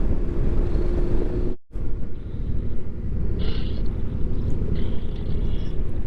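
Motorcycle engine running at riding speed under a heavy wind rumble, with a brief break about one and a half seconds in.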